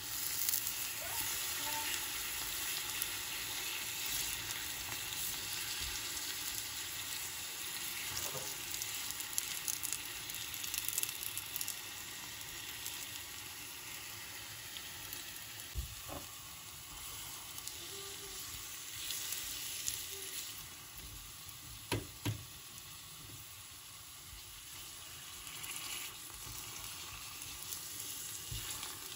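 Sugar-coated bananas sizzling steadily in hot oil in a non-stick frying pan as the brown sugar caramelizes. A few sharp clinks sound as a fork turns them against the pan.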